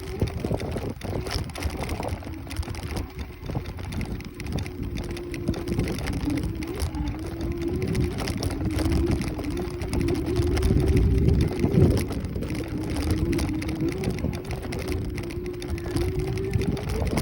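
Kaabo Wolf Warrior 11 Pro electric scooter riding along: a steady hub-motor whine that drifts slightly up and down in pitch with speed, over a heavy low rumble of wind and road that surges loudest a little past halfway.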